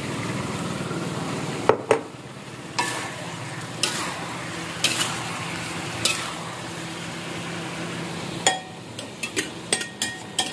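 Chopped eggplant sizzling in a wok while a metal spatula stirs it, with a sharp clack of the spatula against the pan about every second. Near the end comes a quicker run of clinks as the spatula scrapes the last pieces out of a ceramic bowl.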